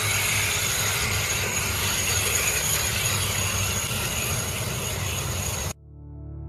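Steady mechanical running noise with a constant high whine, cutting off abruptly near the end, where slow music begins to swell in.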